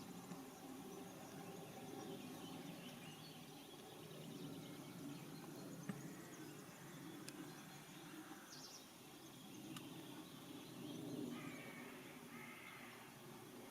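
Faint outdoor garden ambience with a low steady rumble and a few scattered bird calls, and a single sharp click about six seconds in.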